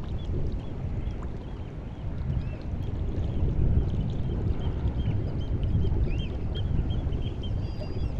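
Sea water of the White Sea lapping and washing at the shore on the rising tide, a low sloshing that swells and ebbs every few seconds. Many faint, short, high chirping plinks are scattered over it.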